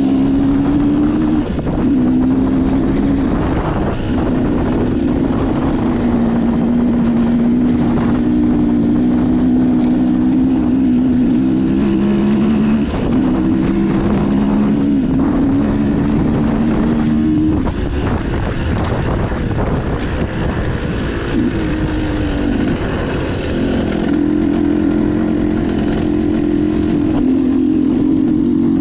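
Motocross dirt bike engine running under way, its pitch climbing and dropping again and again as the throttle is worked and gears are changed.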